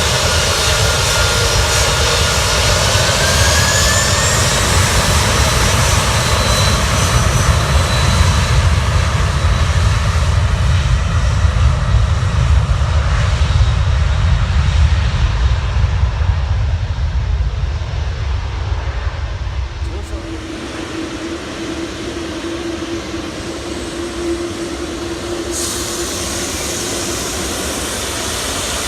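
Jet airliner engines spooling up, with a whine rising in pitch over the first few seconds above a heavy, steady rumble. The rumble eases about twenty seconds in, and a steady hum remains.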